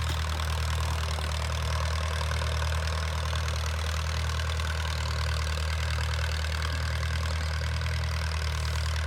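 Allis-Chalmers WD tractor's four-cylinder engine running steadily at a low, even speed.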